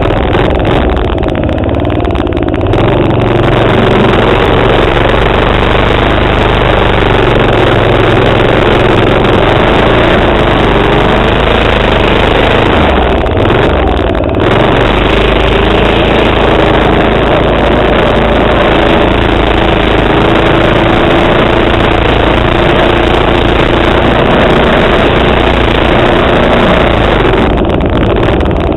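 Single-cylinder four-stroke Tecumseh 3.5 HP engine of a Manco minibike running under throttle, its pitch wavering up and down, with brief drops in level near the start, about halfway through and near the end.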